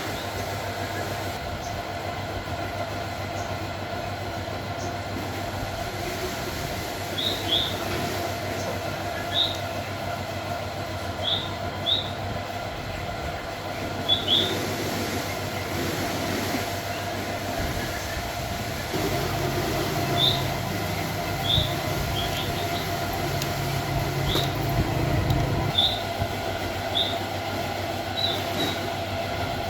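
Small grass-trimmer engine driving a home-built generator, running steadily with a constant drone. Short high chirps come every second or two over it.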